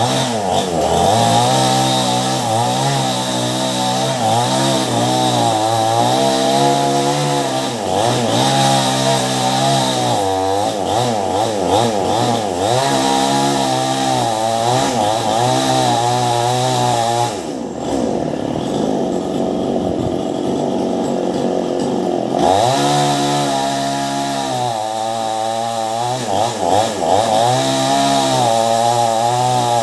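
Petrol chainsaw with a STIHL chain cutting through a thick mango trunk, its engine speed rising and falling under load. About 17 seconds in the engine drops in pitch and the cutting sound thins for a few seconds, then it picks back up.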